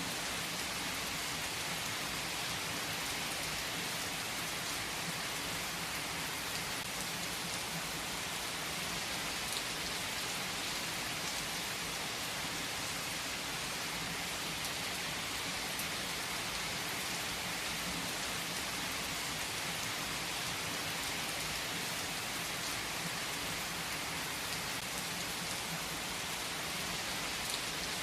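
Steady rain falling on a surface, an even hiss at a constant level, with a couple of faint clicks.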